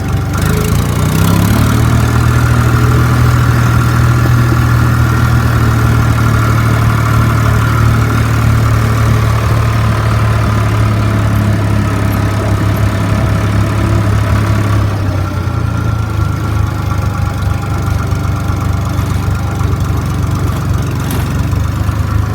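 Case IH 485 tractor's diesel engine running with a steady hum. It speeds up about a second in, holds there, and drops back to a lower speed a little before fifteen seconds.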